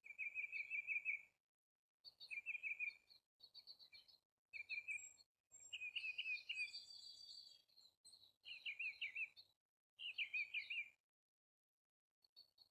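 Songbird singing: about six short trilled phrases, each around a second long, with thin higher notes between them.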